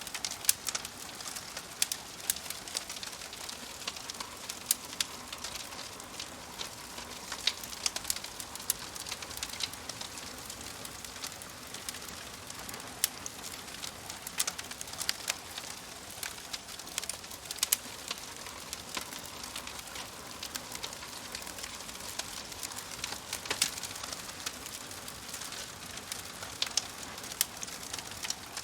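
Campfire crackling steadily, with frequent sharp irregular pops and snaps over a soft hiss.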